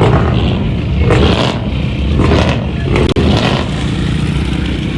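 Vehicle engine revving hard in repeated surges, about one a second, over a constant loud low rumble.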